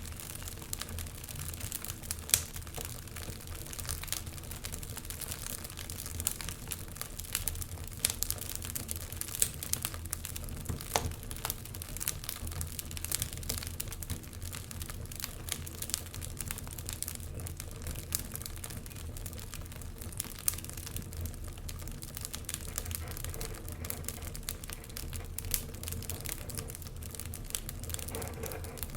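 Wood logs burning in a fireplace, crackling with many irregular sharp pops and snaps over a low steady rumble.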